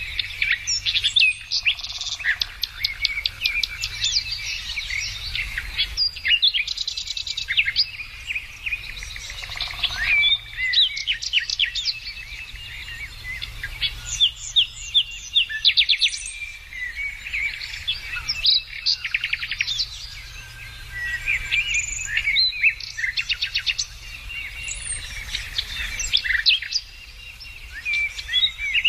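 Several birds singing at once: a dense chorus of chirps, short whistles and rapid trills, over a steady low rumble.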